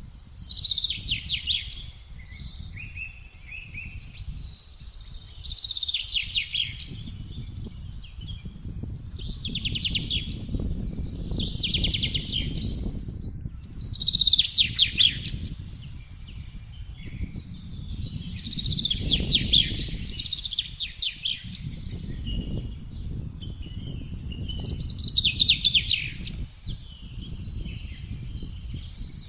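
Wind rushing and gusting, with a songbird repeating a short, fast trilled song that falls in pitch, about seven phrases a few seconds apart.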